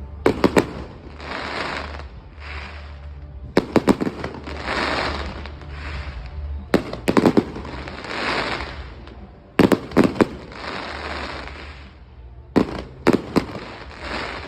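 Fireworks bursting overhead in volleys of two or three sharp bangs roughly every three seconds, each volley followed by about a second of crackling as the stars burn out.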